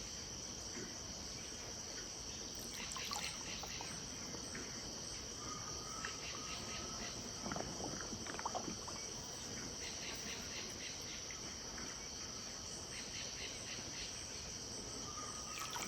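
Steady high-pitched chorus of insects at dusk, with a few faint short bird calls and a thin whistled note about a third of the way in.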